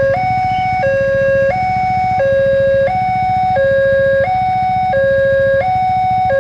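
Railway level-crossing warning alarm sounding while the barrier is down for a train: an electronic two-tone signal swapping steadily between a lower and a higher note, each held about 0.7 s. A low steady hum runs underneath.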